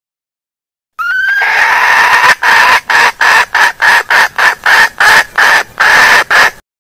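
Junglefowl hen calling: a brief rising note opens a sustained call, which breaks into a quick series of repeated clucking notes, about three a second, before stopping abruptly.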